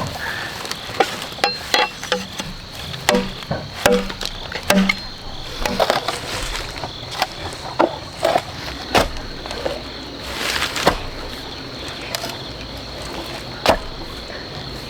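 Irregular sharp knocks and taps of hand work on wood, about one or two a second, over a steady high whine.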